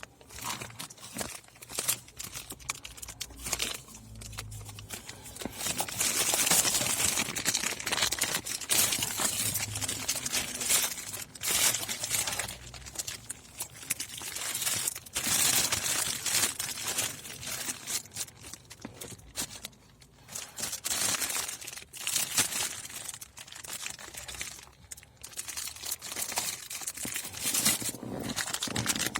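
Plastic packaging crinkling and rustling in irregular bursts as a parcel of car audio parts and cables is unpacked by hand.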